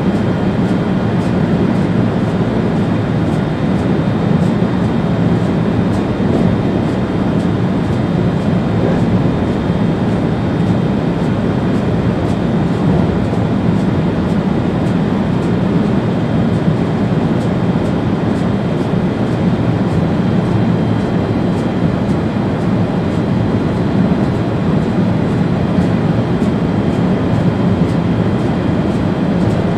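Steady running noise of an ÖBB Railjet train heard from the driver's cab: a constant rumble of wheels on rails, with a faint high steady whine.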